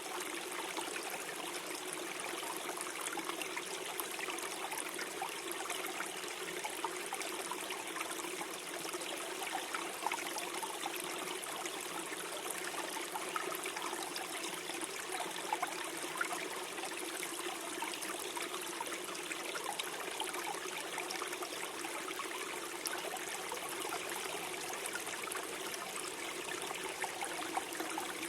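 A small forest stream flowing and gurgling over stones, a steady babble with small splashes.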